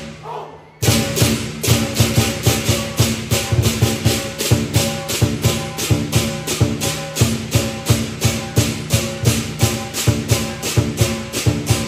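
Lion dance percussion: drum, cymbals and gong playing a fast, even beat of about four strokes a second over ringing metal tones. It breaks off briefly just after the start, then picks up again.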